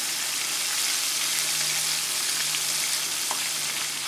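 Breaded pork steaks frying in a skillet of hot oil: a steady, even sizzle with a few faint ticks.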